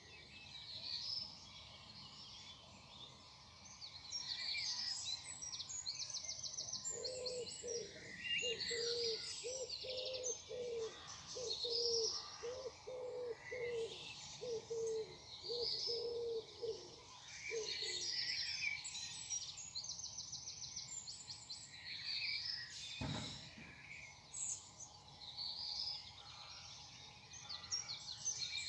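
Morning chorus of several songbirds chirping and singing, with a fast high trilled phrase that comes back twice. Through the middle a low cooing call repeats about once a second for some ten seconds. A single sharp knock sounds near the end.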